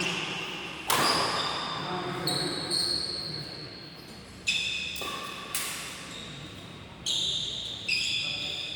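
Badminton rally in a sports hall: sharp racket-on-shuttlecock hits at irregular intervals of about a second, several of them with short high shoe squeaks on the court, each hit echoing and dying away slowly in the hall.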